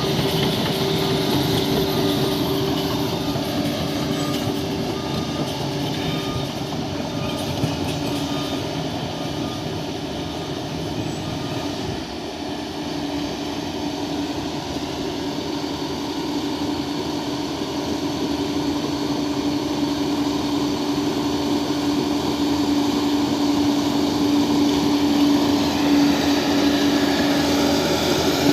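Bulldozer's diesel engine running steadily, its note growing louder over the second half.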